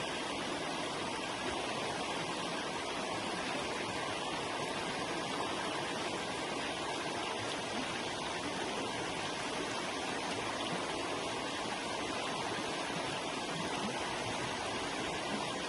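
A river flowing over rocks: steady, even rushing water with no breaks.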